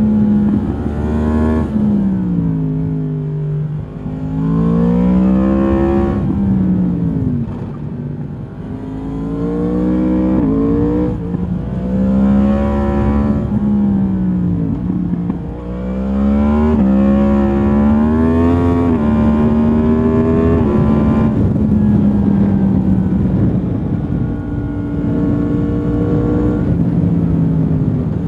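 2022 Yamaha MT-10's crossplane inline-four engine through its stock exhaust, ridden hard: the revs climb and drop again and again as it accelerates through the gears and rolls off, then it holds a steadier, lower note for the last several seconds.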